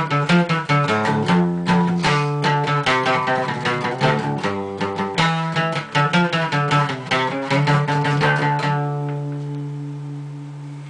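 Guitar playing a fast instrumental run of single plucked notes, then letting one low note ring and fade away over the last few seconds as the song ends.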